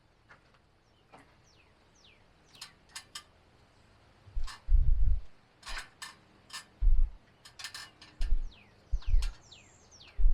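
Scattered sharp clicks and knocks of hand-tool work on the porch framing, with a few low thumps, while a bird calls in short falling chirps.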